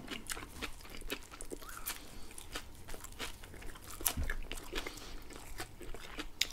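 Close-miked eating of shawarma and fresh parsley: irregular crunching bites and wet chewing clicks. One bite about four seconds in is louder than the rest.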